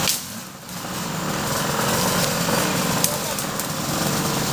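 Motocross dirt bike engine running under a steady rush of noise, dipping briefly just after the start and then holding steady.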